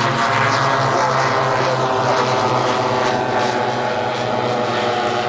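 Propeller engines of a four-engine radio-controlled warbird bomber model flying, several engine tones running together at once and holding steady.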